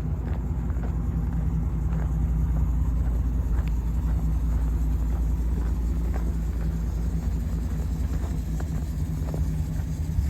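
2010 Chevrolet Silverado pickup's V8 engine idling steadily with a low rumble.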